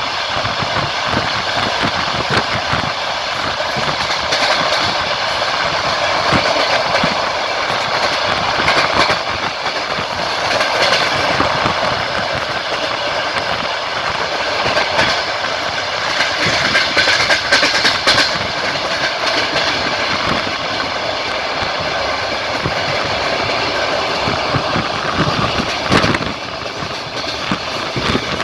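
Passenger train wheels running over the track: steady rolling noise with irregular clicks as the wheels cross rail joints, and one louder knock near the end.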